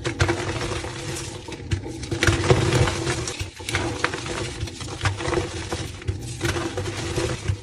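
Soft reformed gym chalk being crushed and crumbled, a dense crackle of many small cracks that eases off briefly twice, over a low steady hum.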